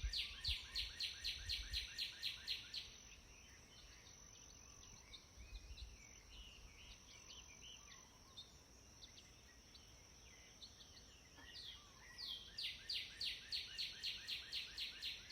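A songbird singing a fast trill of short downward-sweeping notes, about six a second, for a few seconds at the start and again near the end, with softer scattered chirps in between. A steady high thin whine runs underneath.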